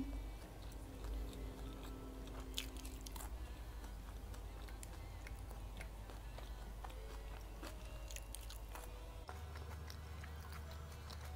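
Quiet chewing of a mouthful of sushi roll (kimbap), with a few light clicks of wooden chopsticks against a glass dipping dish.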